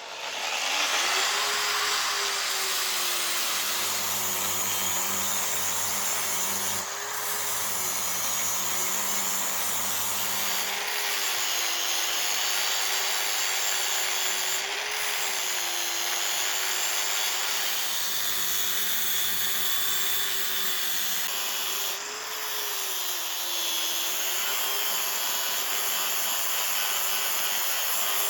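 Electric power tool starting and running continuously, its motor hum dipping and recovering in pitch every few seconds as it is pressed into the work.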